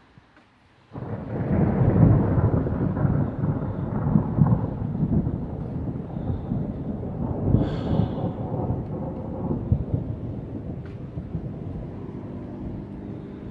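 Thunder: after a second of quiet it breaks in suddenly, loudest about two seconds in, then rolls on as a long low rumble that swells again a few times and slowly fades.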